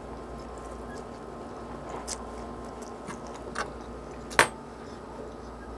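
A person chewing a mouthful of instant pancit canton noodles, with a few short wet clicks; the loudest comes about four and a half seconds in.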